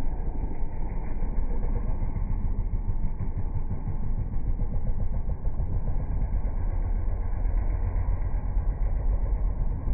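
Motocross motorcycle engines running as a steady, rough low rumble, heard muffled and dull with no clear revving up or down.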